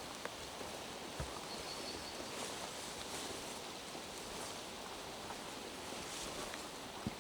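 Steady rain falling in a forest, with a couple of soft footsteps on wet ground, one about a second in and one near the end. A brief faint high chirp comes at about a second and a half.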